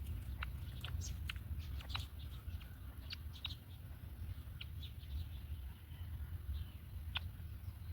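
Birds giving short, high chirps, scattered irregularly, over a steady low rumble.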